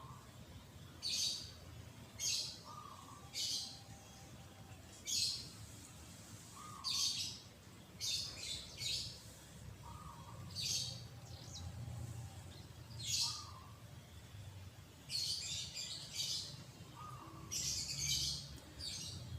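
Birds calling: short high chirps repeat every second or two, with a fainter, lower short note recurring between them.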